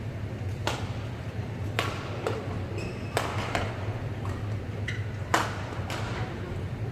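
Badminton rackets striking a shuttlecock in a rally: about seven sharp hits at uneven intervals, the loudest about five seconds in. A steady low hum of the sports hall runs underneath.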